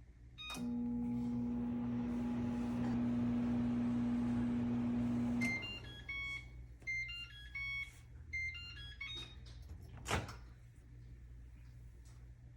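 Microwave oven starting with a click and running with a steady hum for about five seconds before it stops. A run of short electronic beeps of varying pitch follows, then a sharp click near the end.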